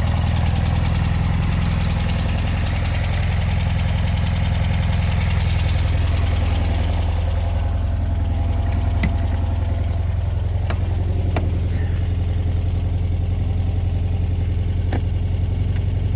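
1967 Volkswagen Beetle's air-cooled, carbureted flat-four engine idling steadily, with a few faint clicks over it in the second half.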